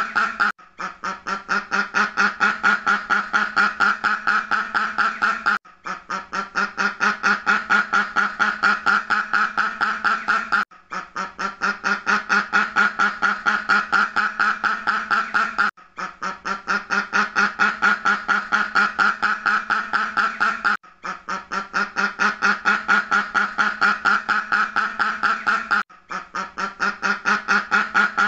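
Duck quacking in a rapid, continuous series of several quacks a second. The quacking breaks off briefly about every five seconds, then starts again softly and builds back up.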